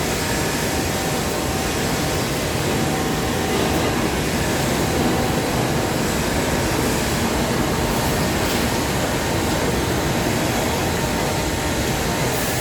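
A New York City Subway train running steadily through the station, a continuous rumble and hiss with a faint tone running through it.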